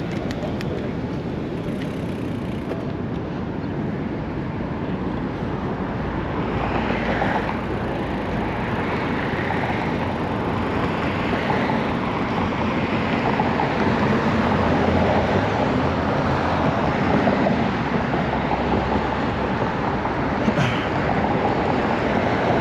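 Steady wind and road noise from riding a gravel bike, picked up by a chest-mounted action camera, with city traffic mixed in; it grows a little louder around the middle.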